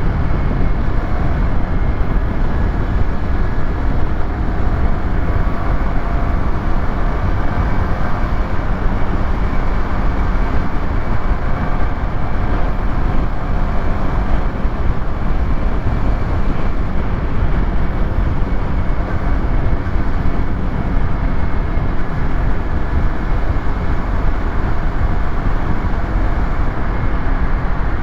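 Yamaha YZF-R125's 125cc single-cylinder engine and exhaust running at a fairly steady throttle while riding, mixed with heavy wind rush on the helmet-mounted camera.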